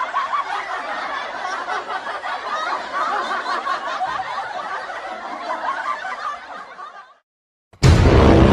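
Crowd laughing, many voices at once, fading away about seven seconds in. A loud music clip cuts in just before the end.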